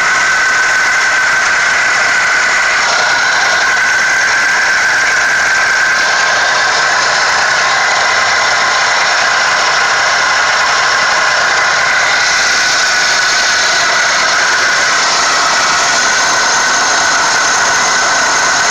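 High-mileage 1998 Toyota Corolla engine running steadily with a diesel-like rattle and a steady high whine over it. The owner suspects the rattle comes from a slack timing chain, which has about half an inch of play.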